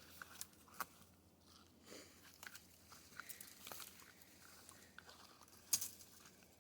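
Faint, irregular crunches and clicks, with one sharper, louder snap near the end.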